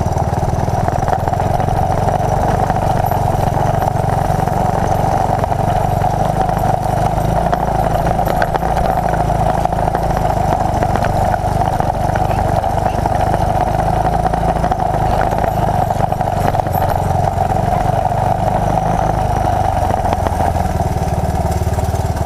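1981 Honda XL185's single-cylinder four-stroke engine running steadily at an even speed throughout.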